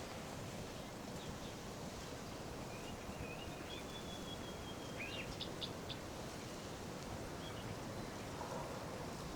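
Steady wind noise with birds calling over it: a thin, held whistle a few seconds in, then a few quick chirps just after the middle.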